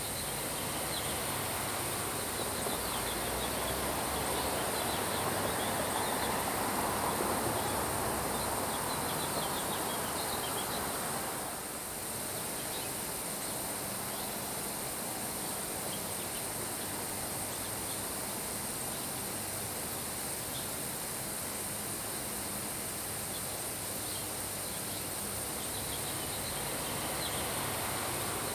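Steady rain falling on grass, with a swell of wind-driven rain that builds over the first few seconds and dies away about twelve seconds in. Faint high chirps run over the rain.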